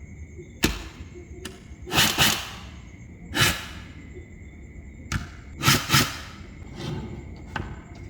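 Small neodymium magnetic balls clicking and clacking as they snap together, about eight sharp clicks at irregular intervals, some in quick pairs.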